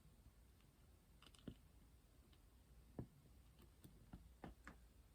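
Near silence broken by a handful of faint, separate clicks and taps, such as a diamond-painting drill pen placing resin drills on a canvas.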